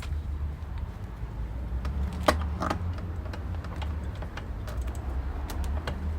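Scattered metallic clicks and clinks of hand tools and small parts being handled, with one sharper clack about two seconds in, over a steady low hum.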